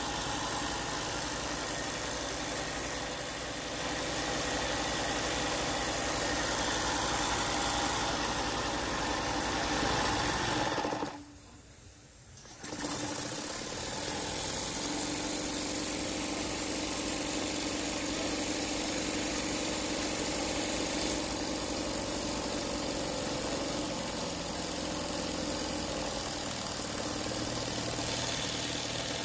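Jensen 20-S model steam engine running fast under steam, a steady rapid mechanical beat. The sound drops out for about a second and a half about eleven seconds in, then resumes.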